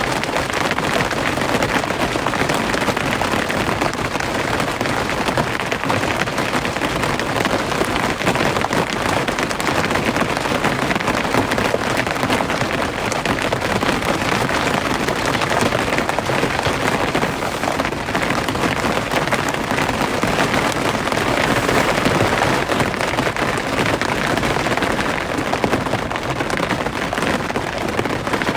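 Steady heavy rain: a dense, even patter of drops hitting a surface.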